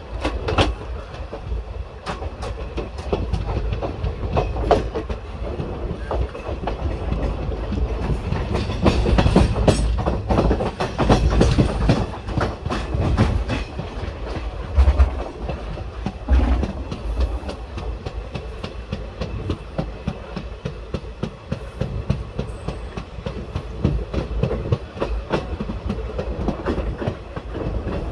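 Indian Railways express passenger coaches running along the track, heard from aboard: a steady low rumble with wheels clicking over rail joints again and again.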